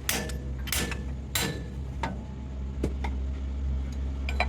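Hammer blows on metal, three sharp strikes about 0.6 s apart, then a few lighter taps and clicks. A steady low hum runs underneath.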